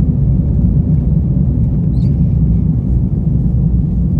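Steady low road and engine rumble of a moving vehicle, heard from inside the cab.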